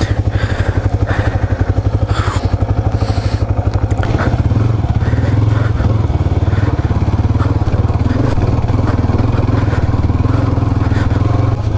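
Motorcycle engine idling with an even pulse, then pulling away at low revs about four seconds in and running steadily as the bike rolls slowly onto a dirt track.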